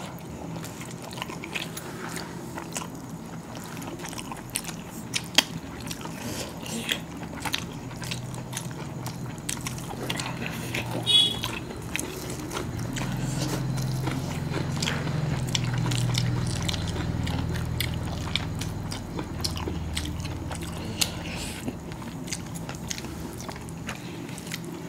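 Two people chewing mouthfuls of chicken biryani, with many small wet mouth clicks and lip smacks. A low hum swells and fades through the middle.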